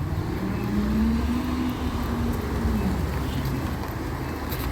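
Recycling truck's engine running steadily, with a pitched tone that rises about half a second in, holds, then drops away near three seconds.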